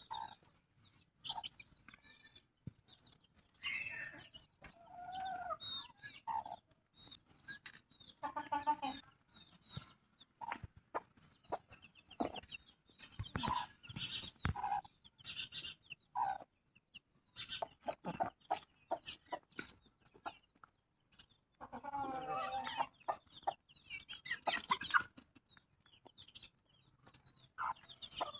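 Chickens clucking, a run of short separate calls from several birds, with brief high-pitched calls in between.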